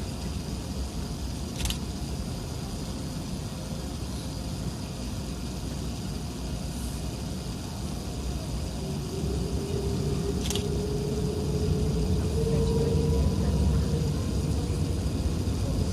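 Inside the cabin of an Airbus A380-861 with GP7200 engines: steady low engine and airframe rumble with hiss. About halfway through, a faint whine rising slightly in pitch comes in and the rumble grows louder. A couple of light clicks sound in the cabin.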